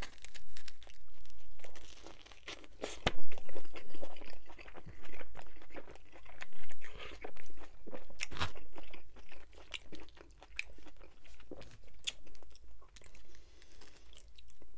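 Close-miked biting and chewing of a slice of spicy barbecue chicken pizza, the crust crunching in irregular sharp crackles, the loudest crunch about three seconds in.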